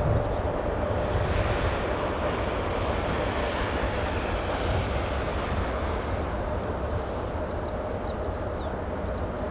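Boeing 747-8F freighter's four GEnx jet engines, a steady rumble with a held tone running through it, slowly fading. Faint bird chirps near the end.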